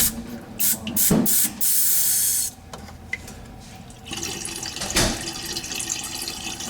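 Water running, with a few knocks and a short loud hiss in the first couple of seconds, then a steady run of water from about four seconds in.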